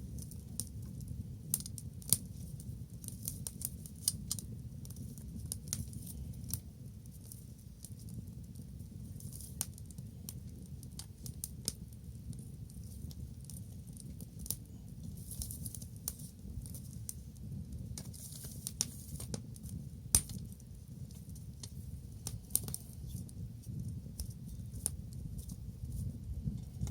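Wood bonfire crackling, with frequent irregular sharp pops over a low steady rumble; the loudest snaps come about 2 seconds in and about 20 seconds in.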